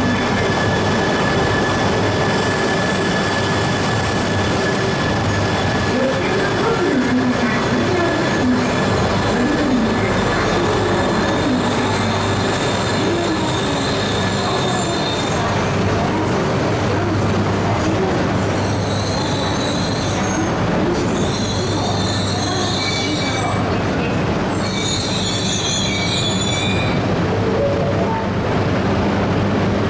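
E3 series Shinkansen train creeping slowly along the platform, with a steady running hum. In the second half come three high-pitched squeals from the wheels or brakes as it slows toward a stop for coupling.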